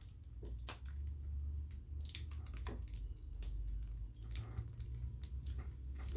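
Scattered small clicks, taps and scrapes of smartphone parts being handled and pressed back into place during reassembly, over a faint low hum.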